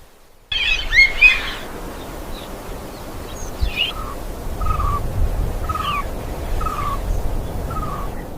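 Birds calling: a quick burst of high chirps, then a short lower note repeated about once a second with a few higher notes between, over a low rumbling background.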